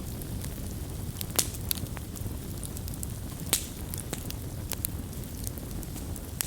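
Wood campfire crackling: sharp pops and snaps at irregular intervals, the loudest about one and a half and three and a half seconds in, over a steady low rumble of burning.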